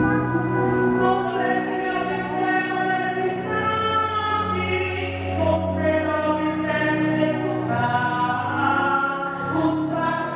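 Music with voices singing long held notes in a slow, choral style.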